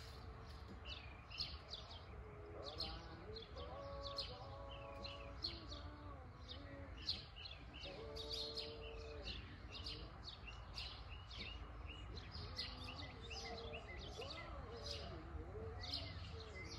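Songbirds chirping and calling outdoors, many short calls one after another, over a faint steady low rumble.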